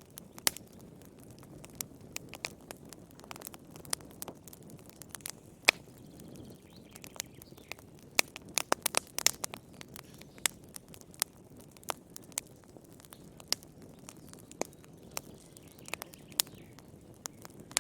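Wood fire crackling in a fireplace: irregular sharp pops and snaps over a soft, steady low rush of flame, with a quick flurry of pops around the middle.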